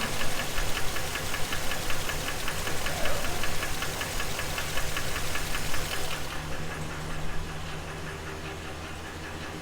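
The 6.0 V8 of a 2016 GMC Sierra 2500 idles with a quick, even ticking knock of about five or six a second, and the sharp part of the tick fades about six seconds in. This is the engine's first run after new main and rod bearings, and the knock is still there, which leaves the owner doubting the bearings were the cause.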